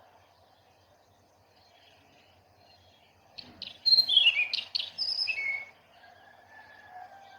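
A songbird singing one loud, quick phrase of chirps and falling whistles, starting about three and a half seconds in and lasting about two seconds, over faint background birdsong.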